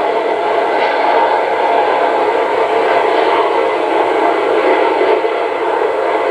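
Loud, steady jet engine noise from McDonnell Douglas F/A-18 Hornet jets.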